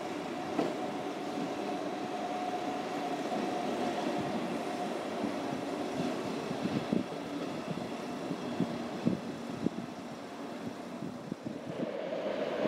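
A train moving through the station: a steady rolling noise with a held high tone and scattered irregular knocks, growing louder near the end.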